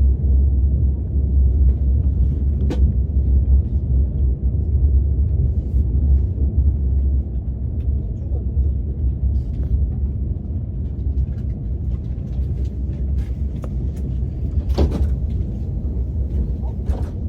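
Steady low rumble of a KTX high-speed train heard from inside the passenger cabin while under way, with a few brief faint clicks.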